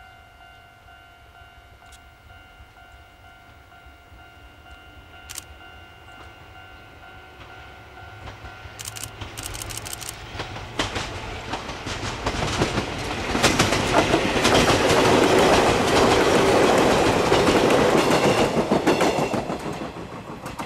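Chichibu Railway 1000 series electric train, a former JNR 101 series, approaching and passing close by, its wheels clattering over rail joints. It grows from about eight seconds in, is loudest in the second half, and fades near the end.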